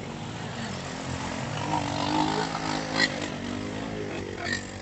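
Four-wheeler engines running, one revving up and back down between about one and three seconds in, with a short knock about three seconds in.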